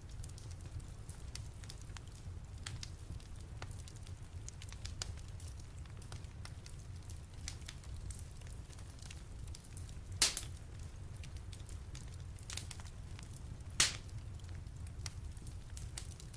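Wood fire in a fireplace crackling, with scattered small snaps over a steady low rumble and two louder pops in the second half.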